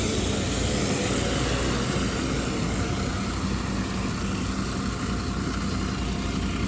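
MAZ-103.465 city bus engine running with a steady hum, heard from inside the passenger cabin.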